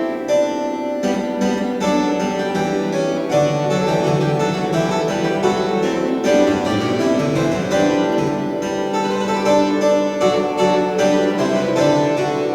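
Restored historic church organ playing a fugue on its lute stop, a plucked-sounding registration, with several lines of notes moving against one another without a break.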